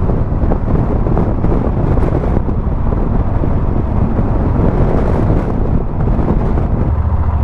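Wind buffeting a helmet-mounted microphone on a moving motorcycle, with engine and road noise running steadily underneath.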